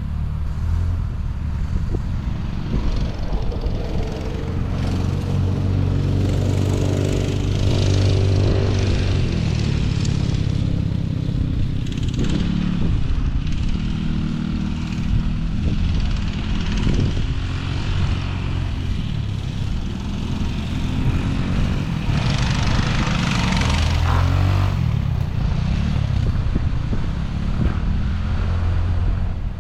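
Engine of a dirt bike or ATV being ridden, its revs climbing and dropping again and again as the throttle is worked.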